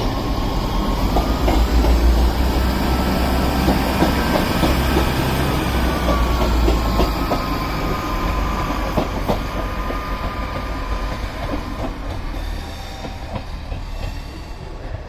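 Class 158 diesel multiple unit running through the station, with a loud low rumble, wheels clicking over rail joints and a whine that rises and then falls. The sound is loudest in the first few seconds and slowly fades as the train draws away.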